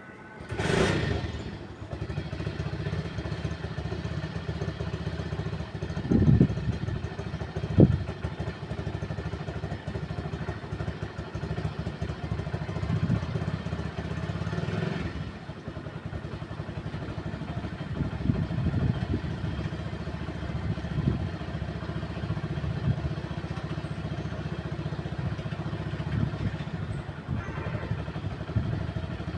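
Wind buffeting the microphone: a steady low rumble with gusts, and two sharp buffets about six and eight seconds in.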